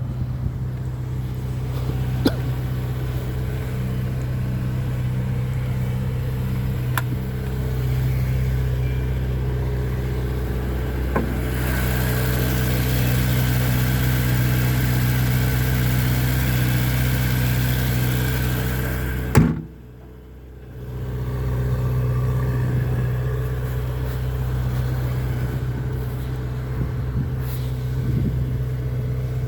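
Ferrari 488 GTB's twin-turbo V8 idling steadily at low revs. About two-thirds of the way through there is a sharp knock and a drop in sound of about a second, then the same idle resumes.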